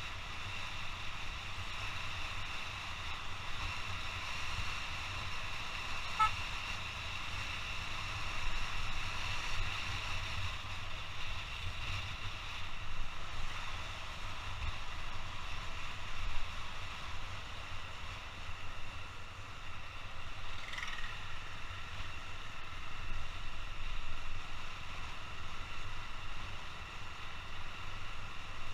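Motorcycle riding heard from a helmet-mounted camera: wind buffeting the microphone with a low rumble over the steady noise of the engine and road.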